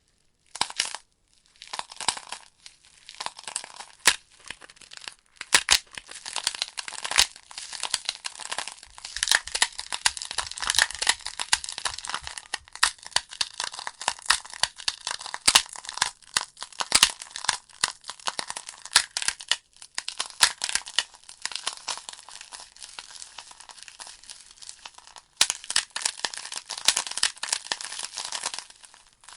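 Burning logs in a fireplace crackling, with frequent sharp pops over a steady hiss of small crackles. The crackling is sparse for the first two seconds, then dense throughout.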